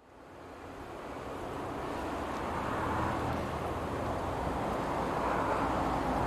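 Distant train running along the line, a steady rumble that fades in and slowly grows louder over the first few seconds.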